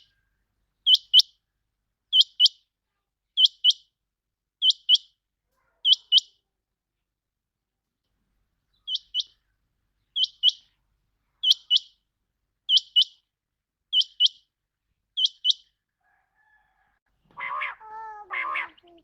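Common quail calling: short, high calls of two or three quick notes, repeated about once a second in two runs of six with a pause between. Near the end a lower, harsher call starts.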